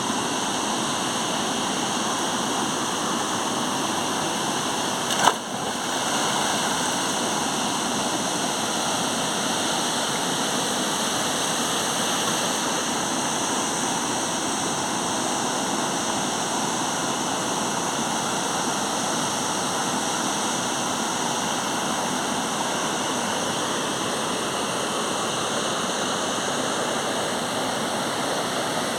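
Steady rushing roar of a waterfall. About five seconds in, one brief sharp click or knock stands out above it.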